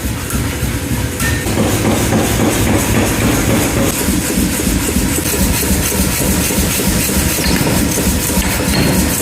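Blacksmith's power hammer running, pounding hot iron in rapid repeated blows, growing fuller about a second and a half in.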